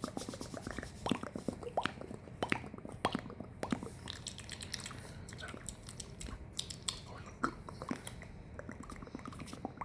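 ASMR mouth sounds close to the microphone: irregular wet clicks and smacks of tongue and lips, dense in the first few seconds and sparser later.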